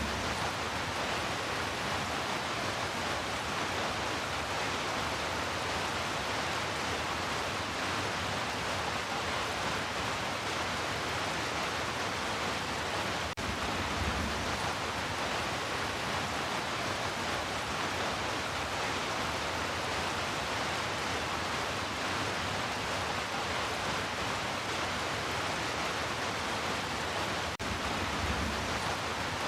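Steady heavy rainfall, an even hiss with no breaks.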